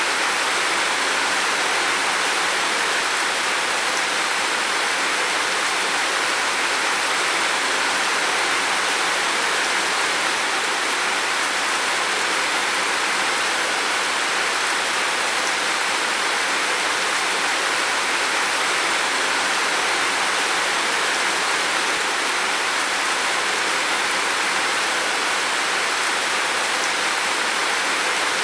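Heavy rain falling on a roof, a dense, even hiss that holds steady throughout.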